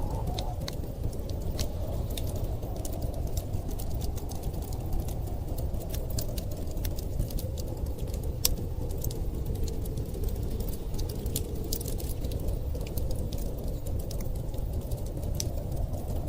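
Wood fire crackling with irregular sharp pops and snaps, over a steady low rumble of storm wind.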